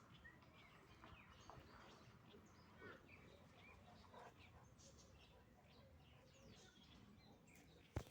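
Near silence with faint, scattered bird chirps and one sharp click near the end.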